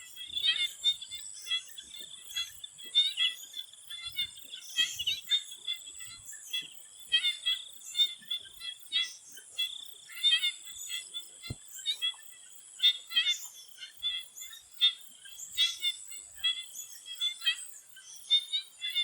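A chorus of swamp frogs, with short calls repeated several times a second and overlapping, over a steady high insect trill.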